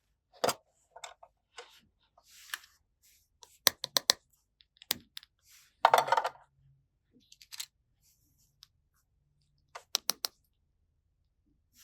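Small toy pieces being handled: light, irregular clicks and taps, some in quick runs of three or four, with a softer, longer rustle of handling about halfway through.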